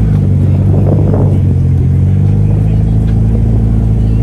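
Car engine idling steadily with a deep, low rumble close by.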